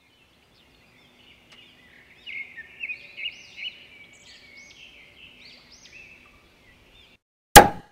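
Birds chirping and twittering, loudest a couple of seconds in, cutting off abruptly about seven seconds in. A single sharp, loud bang follows just before the end.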